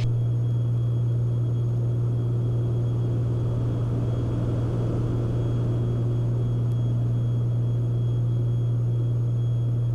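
Steady drone of a Beechcraft Baron B55's twin six-cylinder piston engines and propellers in level cruise, heard inside the cabin: an even low hum with no change in pitch or level.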